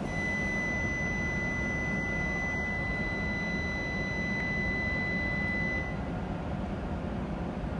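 W7 series shinkansen braking to a stop: a steady high whine from its traction equipment that cuts off about six seconds in as the train halts, over a low steady rumble.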